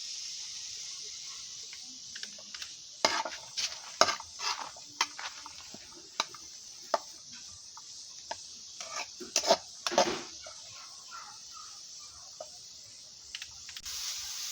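A spoon knocking and scraping against a cooking pot in scattered clicks, clustered in two spells, over a steady frying sizzle from vegetables in groundnut oil. The sizzle grows louder near the end.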